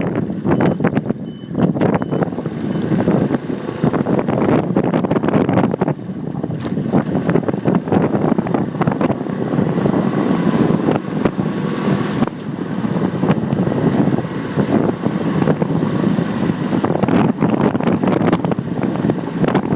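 Riding noise from a motorcycle recorded on a phone mounted on the bike: steady rough engine and road noise with wind buffeting the microphone, along with street traffic.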